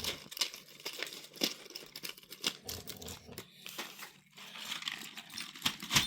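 Advent calendar door being torn open, with irregular crinkling and tearing of cardboard and wrapping.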